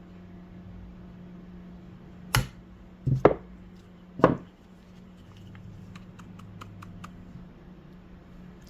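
Hammer striking a punch on a carburetor's Welch plug to spread it and seat it: four sharp metallic hits, two of them close together, then a few light clicks of small parts being handled.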